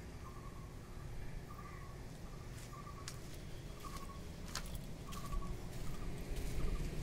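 A bird calling over and over, a short note about once a second, over low wind rumble that grows louder near the end, with a few sharp clicks.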